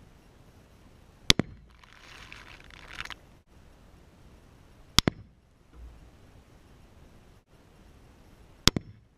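Three rifle shots from a .30-06 rifle, evenly spaced a few seconds apart. Each sharp crack is followed at once by a shorter second crack. A brief rushing noise comes between the first and second shot.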